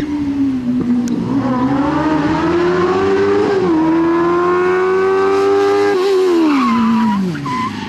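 Smart Fortwo's swapped-in Kawasaki Ninja motorcycle engine revving hard. It climbs in pitch, dips briefly at a gearchange about three and a half seconds in, then pulls up steadily to about six seconds, and the revs fall away as the driver lifts off. Short tyre squeals come near the end.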